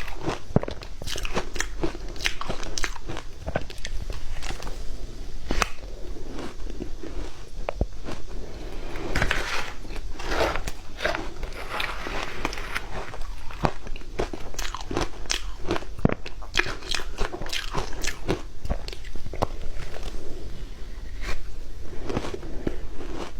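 Close-miked crunching and chewing of ice: a steady run of irregular sharp cracks as the ice is bitten and ground between the teeth.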